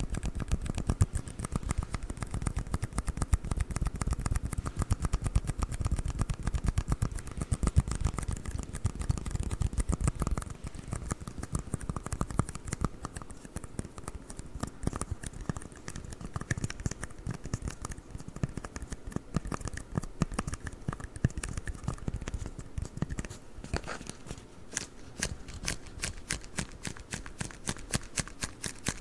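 Rapid tapping and scratching on red plastic cups: a dense, continuous run of small clicks. Fuller and heavier for about the first ten seconds, then lighter and crisper.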